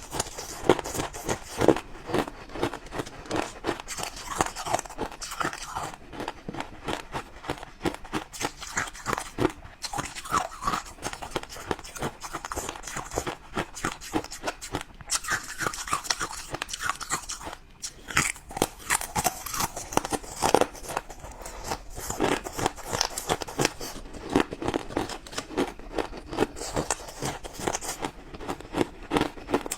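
Close-up crunching of ice being bitten and chewed: rapid, crackling crunches that keep going, with brief pauses about halfway through.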